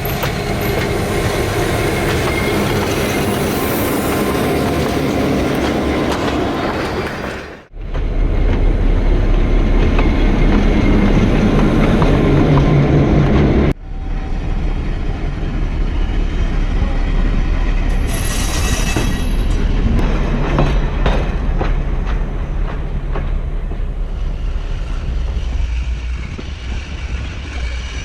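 Heritage train running on the museum track, CN 9000's diesel locomotive rumbling with the wheels squealing and clacking on the rails. The sound breaks off sharply twice, about eight and fourteen seconds in, and carries straight on.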